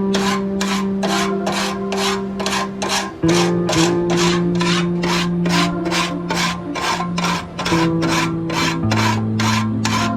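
Steady back-and-forth rasping strokes, about three a second, of hand abrasion working the rusty cleaver's metal, with background music underneath.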